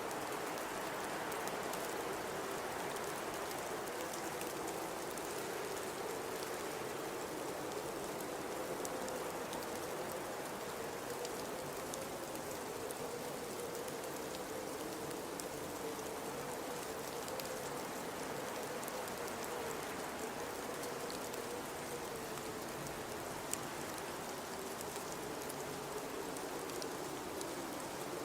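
Blizzard wind howling steadily: a moaning tone that wavers slowly up and down in pitch over a constant hiss of wind-driven snow, with faint scattered ticks.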